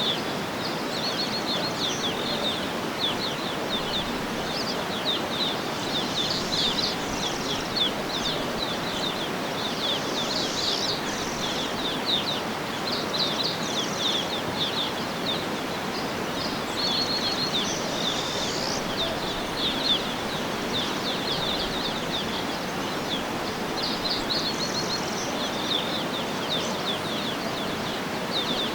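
Small birds chirping and trilling over and over, some in quick rapid runs, above a steady even rushing hiss.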